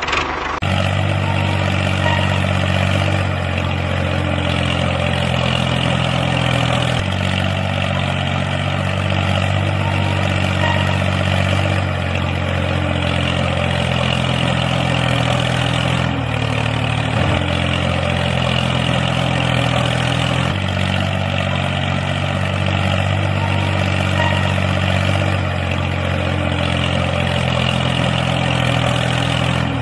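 A small engine running steadily, like a mini tractor's engine idling. Its pitch shifts in small steps every few seconds.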